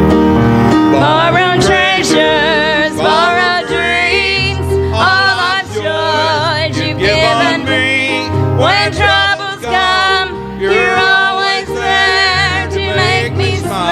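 Country-gospel song: a singer with heavy vibrato over guitar and bass accompaniment.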